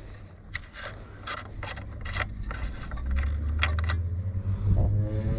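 A run of light clicks and scrapes from hands handling the chainsaw and its parts, with a low steady rumble coming in about three seconds in.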